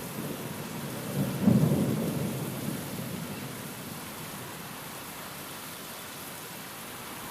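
Steady rain with a roll of thunder that swells about a second in, peaks at a crack near one and a half seconds, and rumbles away over the next couple of seconds.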